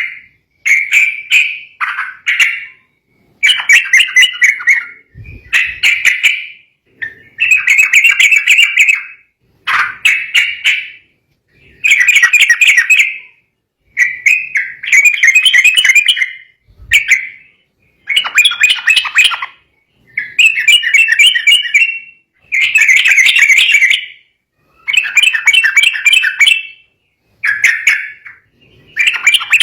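Yellow-vented bulbul (trucukan) in agitated, fired-up song. Loud bubbly chattering phrases about a second long repeat every two seconds or so, with short pauses between them.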